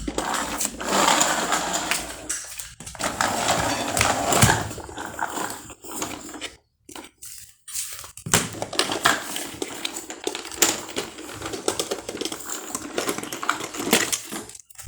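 Plastic toy vehicles being handled and clattering, a dense run of clicks and rattles with a few short pauses.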